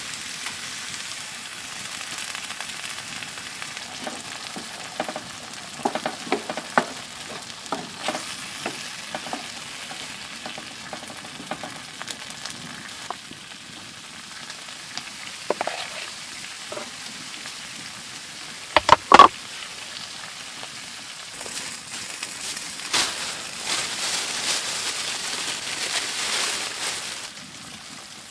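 Food sizzling in a pan on a wood stove, with small clinks of a utensil and one loud metallic clatter partway through. The sizzle grows louder for a few seconds near the end, then drops back.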